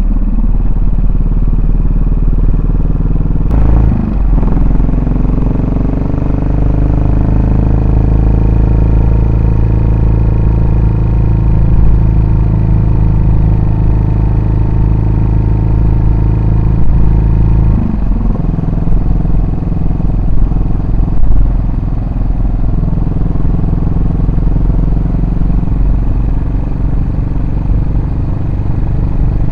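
Yamaha SR400's single-cylinder four-stroke engine and exhaust under way, holding a steady note for most of the first half, with a change in engine speed about four seconds in and again around eighteen seconds in, after which the note wavers more.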